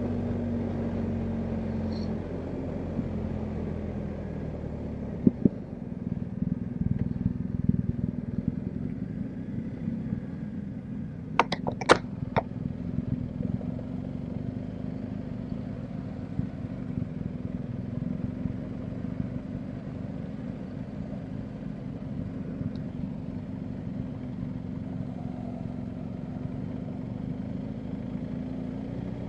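BMW R1250GS Adventure's boxer-twin engine running steadily at low revs, turning rougher and rattly about five seconds in. A quick cluster of sharp knocks comes near the middle.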